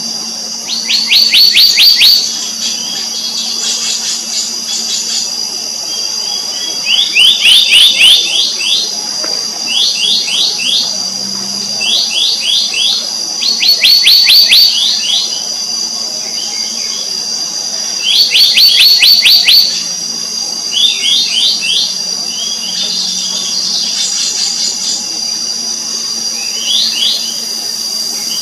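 Black-naped monarch calls: bursts, about a second long, of rapid, sharp, quickly falling notes, repeated every few seconds. A steady high insect drone runs beneath them.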